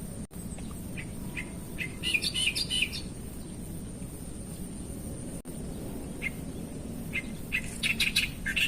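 Wild birds chirping in quick clusters of short notes, about two seconds in and again near the end, with single chirps between, over a steady outdoor background hiss and a thin, steady high-pitched tone.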